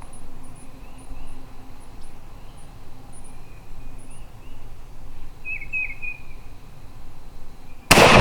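Small birds chirping faintly over a low steady background, with a few sharper chirps a little past halfway. Near the end a loud, rough noise starts abruptly.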